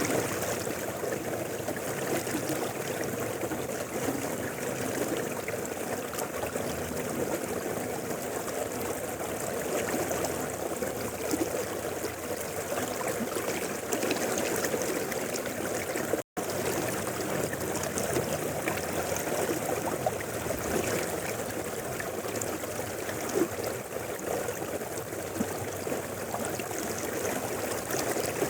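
Mountain river flowing, a steady rushing and gurgling of water over rocks. The sound cuts out for an instant about halfway through, then resumes unchanged.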